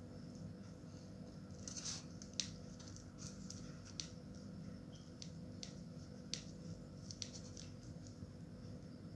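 Irregular light clicks, ticks and small snips from hand crafting work, over a steady low hum.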